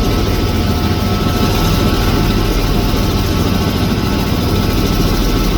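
Helicopter in flight: the steady, loud drone of the rotor and engine, a low rapid throb with a thin steady whine above it.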